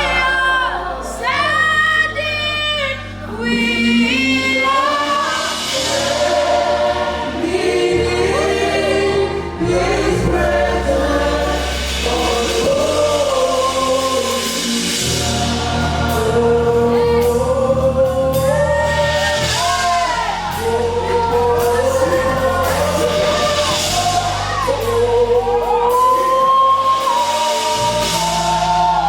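Live worship song: voices singing together in long, gliding lines over sustained low chords that change every few seconds.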